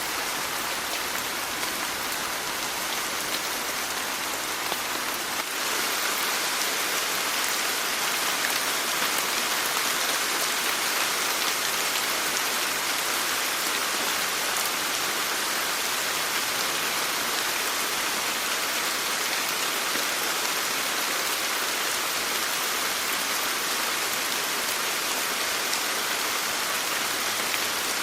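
Steady rain falling, a dense even hiss of drops on surfaces, growing slightly louder about five and a half seconds in.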